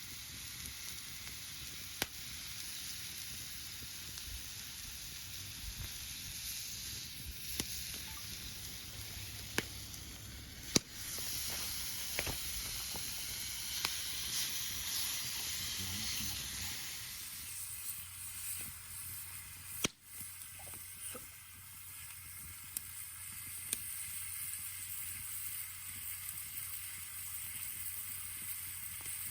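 Pork jowl sizzling over a campfire, a steady hiss broken by occasional sharp pops and crackles.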